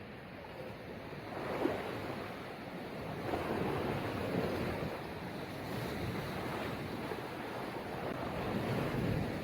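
Sea waves surging and washing, swelling about a second and a half in, again for a couple of seconds around the middle, and near the end, with wind buffeting the microphone.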